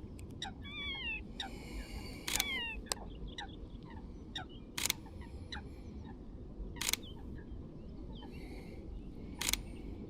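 Mirrorless camera shutter (Sony A6700) firing single frames: four sharp clicks spaced a couple of seconds apart. Birds give short chirping calls, mostly in the first second or so.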